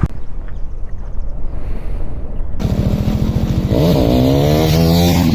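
KTM Duke 390's single-cylinder engine running under way, with a rapid firing pulse. About two and a half seconds in, the sound changes abruptly to a louder, steadier engine note over a hiss of wind. The pitch briefly rises and falls around the middle.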